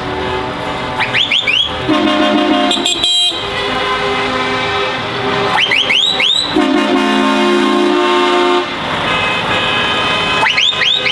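Lorry air horns sounding in repeated long blasts. Each blast starts with a quick rise in pitch and is then held for about two seconds, about once every four to five seconds, over engine and road noise.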